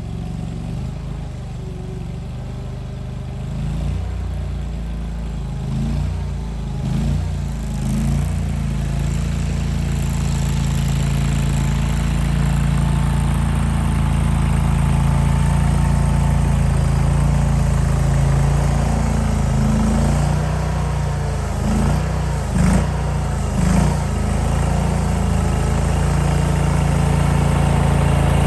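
AGT Industrial KTT23 stand-on mini skid steer's gas engine running steadily. It grows louder over the first several seconds, with a couple of brief surges about three-quarters of the way through.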